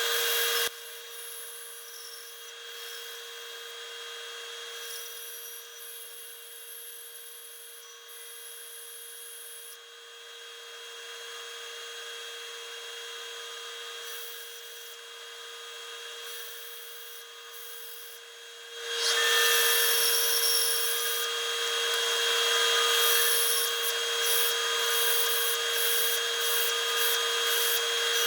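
Power woodworking machine cutting red oak: a steady motor tone under a rasping cutting noise, which grows much louder about nineteen seconds in.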